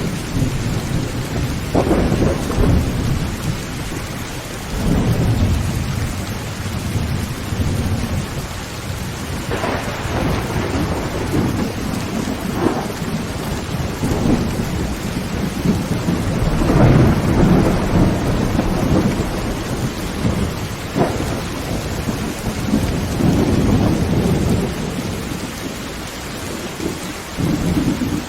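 Heavy rain drumming steadily on a tin roof while thunder rolls again and again, with several low rumbles and a few sharper cracks; the loudest peal comes about two-thirds of the way through.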